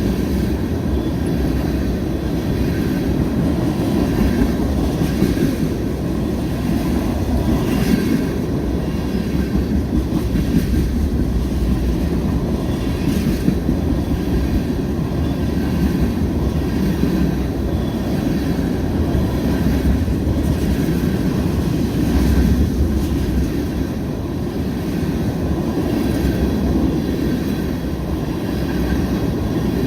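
Freight train of tank cars rolling past steadily. The wheels rumble on the rails, with scattered clicks as they pass over rail joints.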